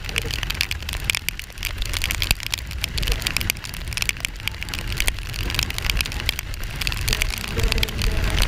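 Riding a Kawasaki Ninja 400 in rain: a steady low wind and engine rumble on the mic, overlaid by a dense crackle of raindrops striking it.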